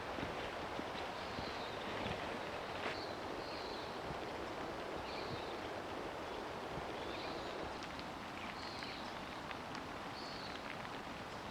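Steady outdoor rushing noise in a wet forest, with short high chirps repeating every one to two seconds and a few light knocks near the start.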